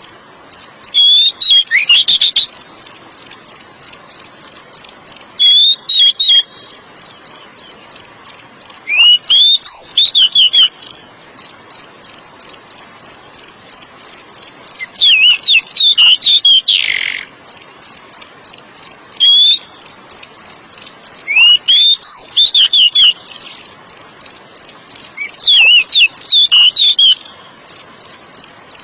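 Oriental magpie-robin (kacer) singing seven short bursts of quick sweeping whistled notes, over a cricket chirping steadily at about three pulses a second.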